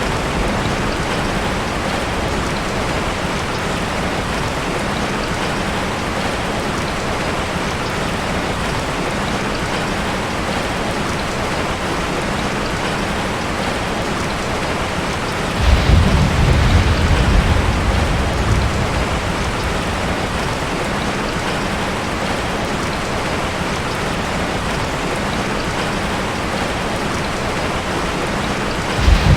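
Heavy rain falling steadily on a tin roof. About halfway through, thunder rumbles in suddenly and dies away over a few seconds, and another peal of thunder begins right at the end.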